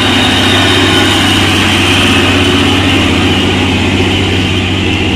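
Heavy truck diesel engine running steadily close by, a deep, even drone with a fast regular firing pulse, pulling a loaded tanker up a climb.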